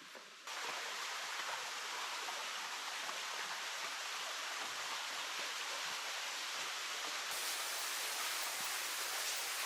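Rushing water of a small waterfall in a creek: a steady, even hiss that starts abruptly about half a second in and sounds brighter near the end.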